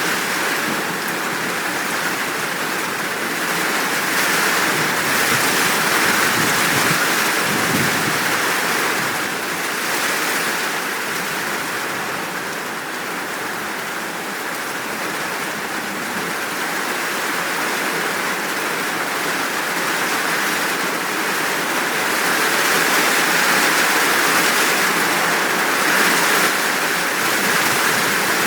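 Steady heavy rain falling, a dense even hiss that swells and eases slowly.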